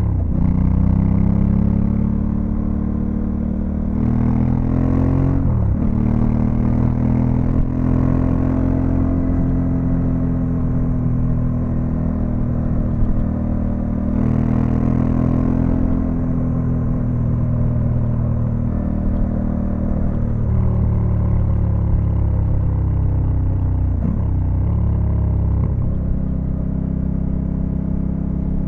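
Honda Africa Twin CRF1100L's 1084 cc 270-degree parallel-twin engine running under way at a mostly steady pitch. Its note dips sharply and recovers twice, about five seconds in and again near the end.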